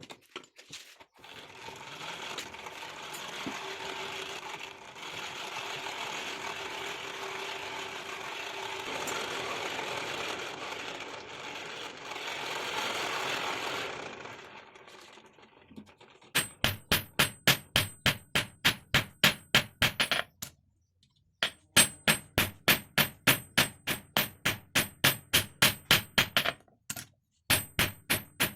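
A steady mechanical whirring noise with a low hum, fading out about halfway through. Then a hammer beats on ringing metal at about four blows a second, in runs with short pauses, as the steel for a chisel is shaped.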